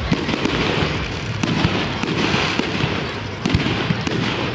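Display fireworks going off: a rapid run of bangs from bursting aerial shells, with a stretch of hissing crackle about two seconds in.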